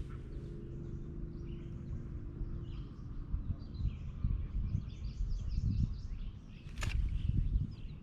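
Birds chirping over a steady low rumble, with a faint hum for the first few seconds and a single sharp click about a second before the end.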